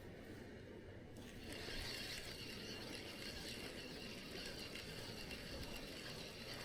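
Fishing reel being wound in, a faint steady mechanical whirr that starts about a second in.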